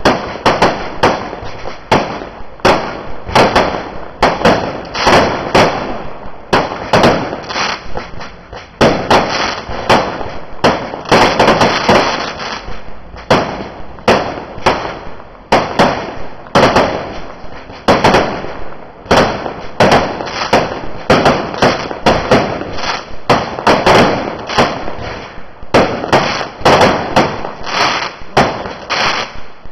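Fireworks going off in a rapid, unbroken barrage of sharp bangs, several a second, overlapping one another.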